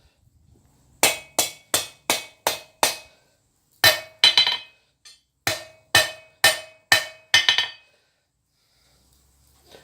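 Hand hammer striking hot steel on an anvil while forging tong jaws: sharp ringing blows in three runs, about six quick strikes, a pause, two more, then another six, each with the anvil ringing.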